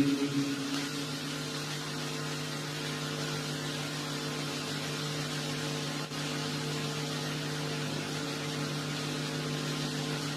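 Steady low hum with an even hiss underneath, unchanging apart from a brief dip about six seconds in.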